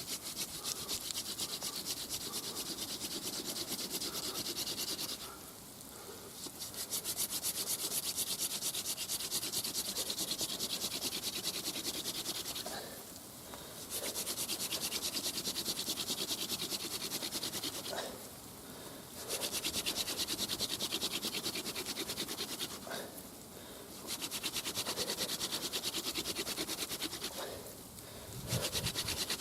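Hand-drill friction fire: a wooden spindle spun back and forth between the palms on a fire board, giving a fast, rhythmic wood-on-wood rubbing. It comes in runs of about five seconds, broken by short pauses about five times.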